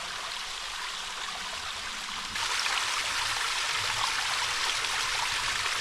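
A stream flowing, a steady rush of water that grows louder about two seconds in.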